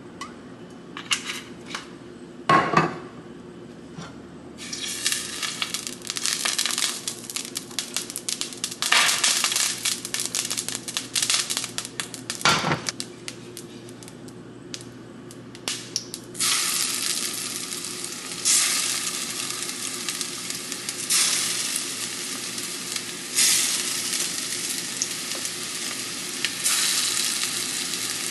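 Food sizzling and crackling in a hot frying pan, starting about four and a half seconds in and becoming denser and steadier after about sixteen seconds, swelling every few seconds. Sharp knocks of a pan or utensil come a couple of times in the first three seconds and once more about twelve seconds in.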